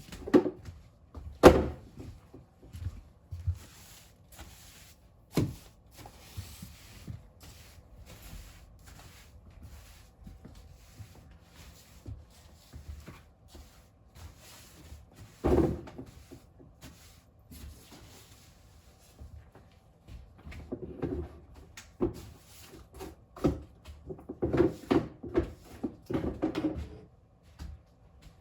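Intermittent knocks and bumps of household handling while cleaning, a few of them sharp, with a quicker run of knocks and clatter near the end.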